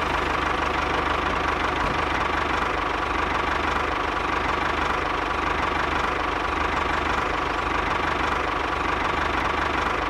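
Diesel tractor engine running steadily with a fast, even chug.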